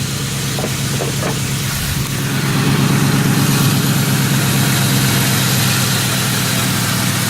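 2001 Ford Mustang GT's 4.6-litre V8 idling steadily shortly after a cold start, through a muffler-delete exhaust. It gets a little louder about two and a half seconds in.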